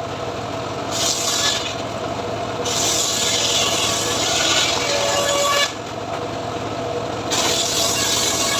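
Homemade bandsaw mill (gergaji srekel) running steadily while its blade saws through mahogany, the cutting coming as loud rasping stretches: a short one about a second in, a long one of about three seconds, and another starting near the end.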